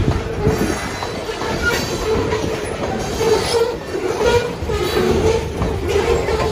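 Freight train of covered hopper cars rolling past: steel wheels rumbling and clacking over the rails, with a recurring squeal of wheels against the rail.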